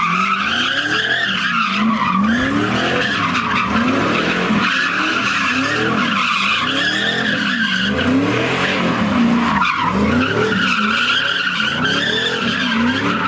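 A car spinning its tyres in a sustained burnout or donut, tyres squealing continuously while the engine revs rise and fall about once a second.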